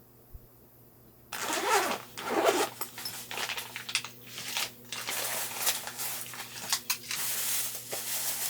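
A zipper pulled open about a second in, followed by rustling and rummaging, as through a bag being searched.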